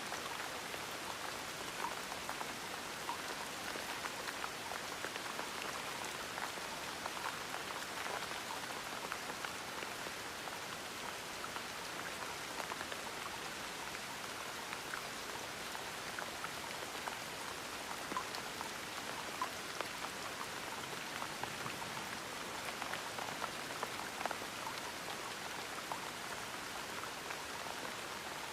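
Steady gentle rain: an even patter of raindrops with many small scattered drips.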